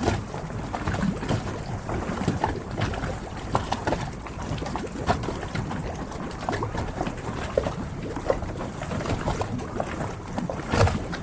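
Harbour water lapping and splashing against the hulls of moored yachts, with irregular small knocks and slaps.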